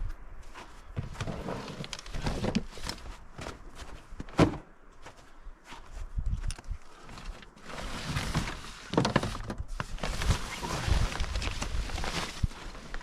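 Footsteps on the ground with scattered knocks and thuds. One sharp knock about four and a half seconds in is the loudest, and a denser rustling stretch fills the second half.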